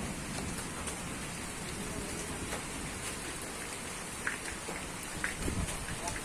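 Steady rain falling, with scattered sharp ticks of drops striking.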